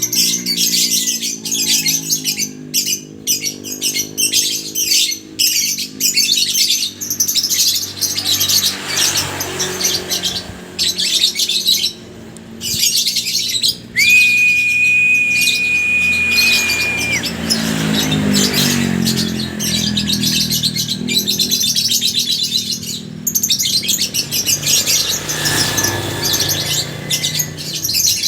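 A colony of lovebirds chattering and chirping continuously. About halfway through, a steady high-pitched tone sounds for about three seconds. A lower sound with a shifting pitch hums underneath.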